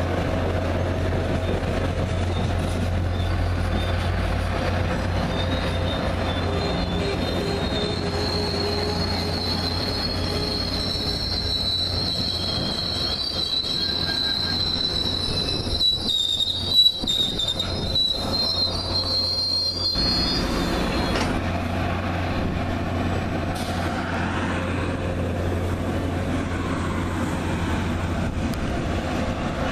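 MBTA commuter train with bilevel coaches rolling past at close range, its wheels squealing high and steady through the middle of the passage over a low steady hum. A single sharp clank is heard partway through.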